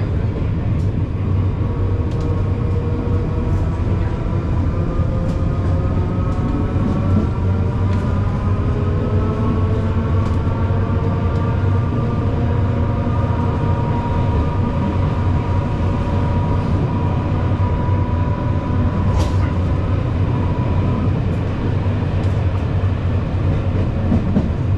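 Trieste–Opicina tram running along its line: a steady low rumble with several whining tones that drift slowly upward and fade out about twenty seconds in, and scattered sharp clicks, one louder near the end.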